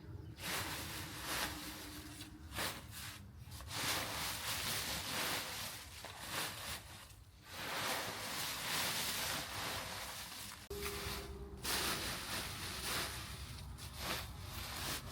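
Irregular rustling and rubbing noises that swell and fade, with a brief faint hum about three-quarters of the way through.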